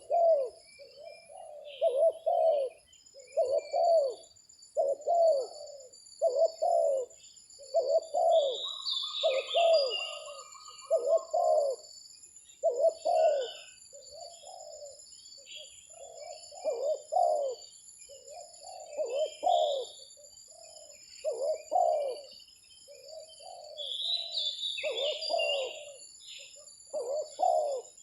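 Spotted doves cooing over and over in short repeated phrases, with smaller birds chirping now and then and insects trilling steadily in the background.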